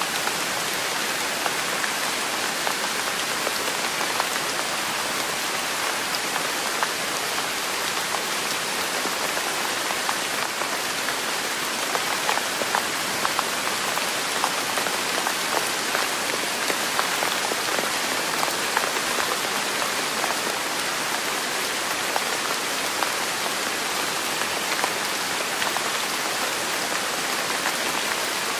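Steady rain falling on a surface: an even, unbroken hiss with many small drop ticks scattered through it.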